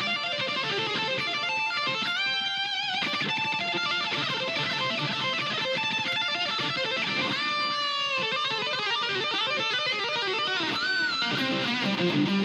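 High-gain distorted electric guitar through a Yamaha THR10X amp on its Brown 2 model, playing fast lead phrases with string bends and vibrato. The notes bend upward about 2 seconds in, again near the middle, and once more near the end.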